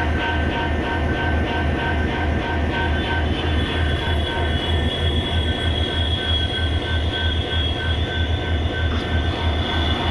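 EMD two-stroke diesel locomotive engine humming: a steady deep throb that pulses several times a second, with a thin high whine and an on-off higher tone over it.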